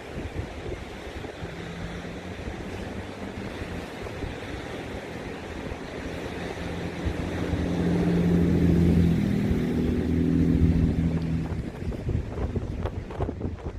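Wind buffeting the microphone over ocean surf, with an engine's steady drone that grows louder to a peak a little past the middle and then fades as it passes.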